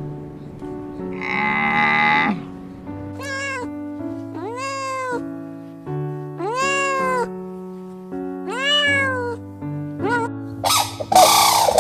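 Domestic cat meowing five times, each call rising then falling in pitch, the first and last short. Soft background music holds steady notes underneath, and a short rough animal call comes about a second in.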